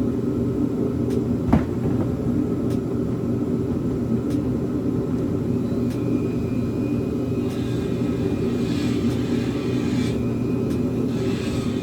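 A steady low hum throughout, with one sharp click about a second and a half in. From about six seconds in, a faint high whine with a gritty hiss comes in two stretches: a header flange bolt hole being reamed out to fit.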